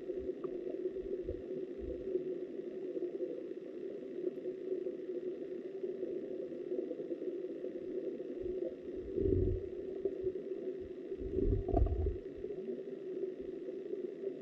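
Muffled, steady rush of flowing river water heard from an underwater camera, with low thuds about nine seconds in and again near the twelve-second mark.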